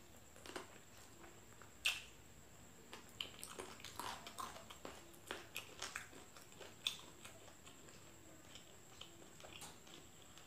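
Faint close-up eating sounds of a person chewing fried chicken: wet chewing, lip smacks and finger sucking as scattered clicks, with sharper smacks about two seconds in and near seven seconds.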